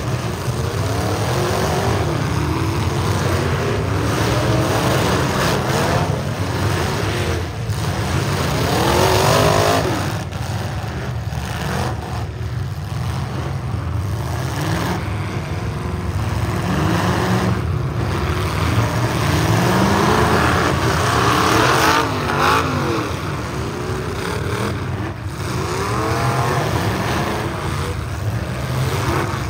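Engines of several full-size demolition derby cars revving hard at once, their pitches rising and falling and overlapping.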